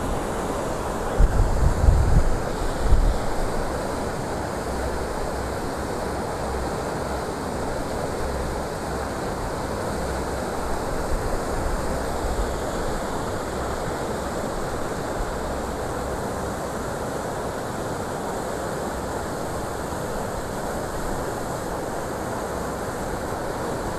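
Steady rushing of fast-flowing floodwater. Wind buffets the microphone with low rumbles in the first few seconds.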